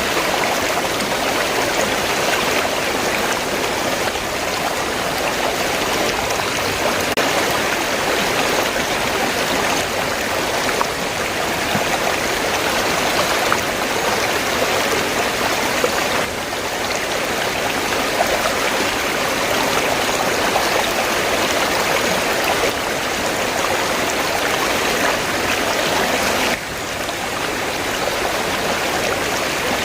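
River water flowing and babbling as a steady rushing wash, with two small sudden dips in level partway through.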